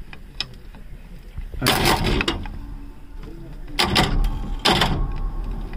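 Tata bus's Cummins diesel engine being cranked by its starter in short bursts, about three tries, without catching. The starter is fed directly because no current reaches the ignition switch, on a bus that has stood unused for a long time.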